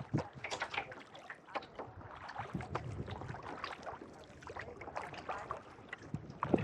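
Kayak paddle blades dipping into lake water, with irregular splashes and water dripping off the blades.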